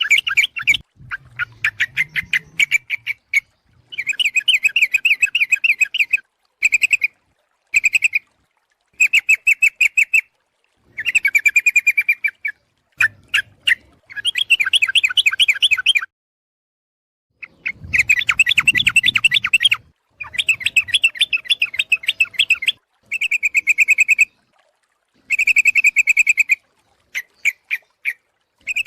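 Yellow-vented bulbul (trucukan) calling: loud, rapid bubbly chattering phrases of one to two seconds, repeated again and again with brief silent gaps, used as a lure call for the species.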